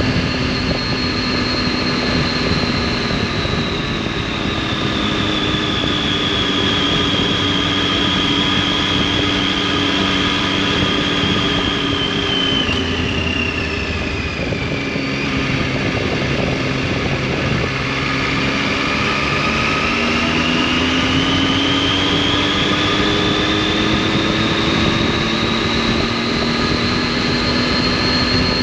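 Triumph Tiger 800's three-cylinder engine and exhaust while riding. The revs ease off and drop about halfway through, then climb steadily again as it accelerates.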